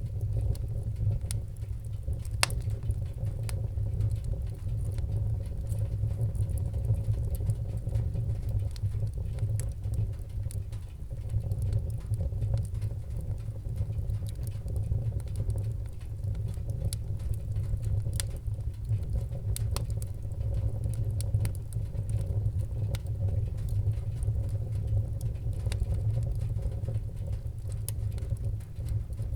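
Wood fire burning in a fireplace: a steady low rumble of the flames with scattered sharp crackles and pops, one of the clearest about two and a half seconds in.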